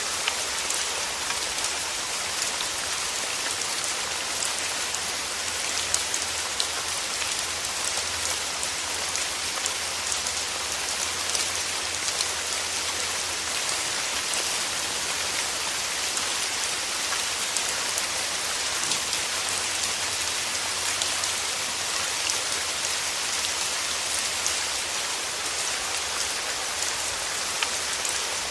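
Steady rain falling, a dense even hiss of drops with scattered sharper drop hits.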